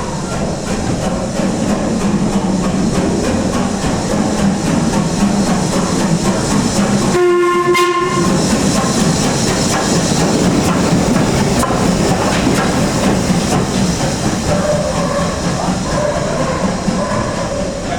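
Heritage railway train running on the line, a loud, steady rumble of wheels on rail with clickety-clack heard from the carriage. A brief pitched tone breaks in about seven seconds in.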